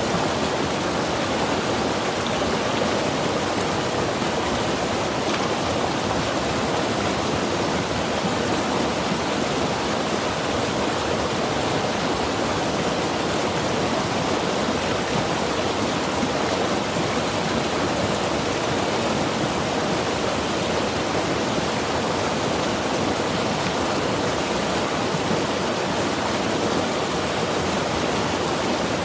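Mountain river rushing steadily: a constant wash of fast-flowing water with no breaks or separate events.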